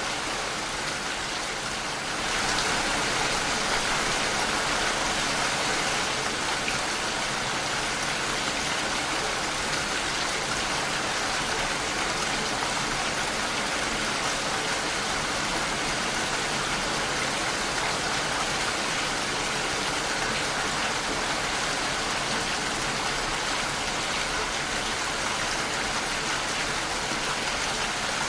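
Steady rain falling against a window, an even hiss of drops, a little heavier from about two seconds in.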